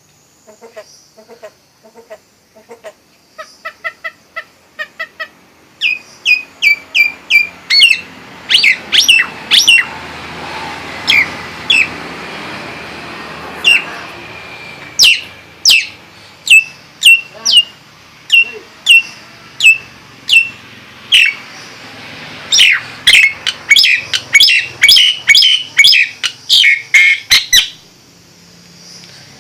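Nias hill myna calling: a long series of loud, sharp whistled notes that each sweep quickly downward, starting about six seconds in and coming fastest near the end. Before that come softer, quick repeated notes.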